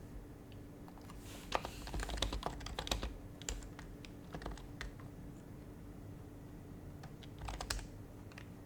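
Typing on an HHKB Professional Hybrid Type-S keyboard with its silenced Topre switches: a quick run of keystrokes about a second and a half in, a few scattered taps after it, and another short burst near the end.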